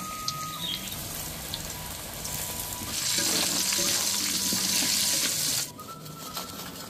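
Flour-battered eggplant slices frying in hot oil in a wok. The sizzle grows loud about three seconds in and cuts off suddenly near the end.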